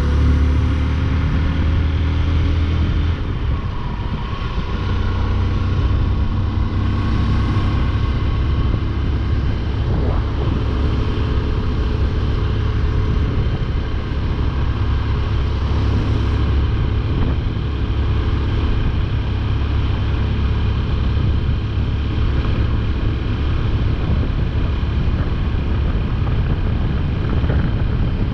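Motorcycle engine running at riding speed under a steady rush of wind and road noise. The engine note shifts about three seconds in.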